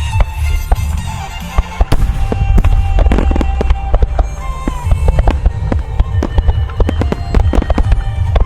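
A music starmine: firework shells bursting in rapid succession, with deep booms and sharp cracks several times a second, over recorded music from loudspeakers.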